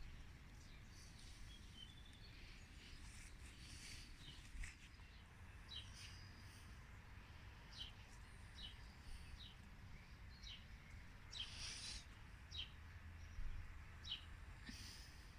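Faint bird chirps: short high notes repeated every second or so, over a low steady rumble.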